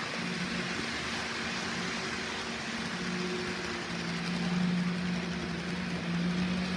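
HO scale model train running on DC track: a steady electric motor hum over the rattle of the wheels on the rails, a little louder from about four seconds in.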